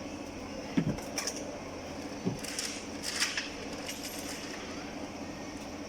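A few light knocks and clinks of small hard objects being handled, over a steady low hum.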